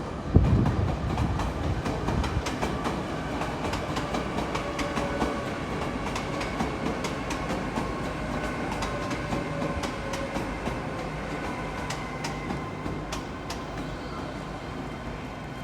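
A train running past along a station platform, its wheels clicking over rail joints and points many times, under a steady rumble with a hum that slowly falls in pitch. A heavy low thump comes about half a second in.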